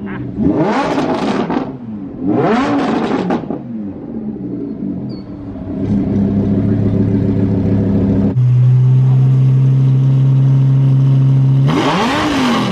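A car engine revved in two quick blips, each rising and falling in pitch. It is then held at a steady raised speed for several seconds, stepping up a notch about eight seconds in, and blipped once more near the end.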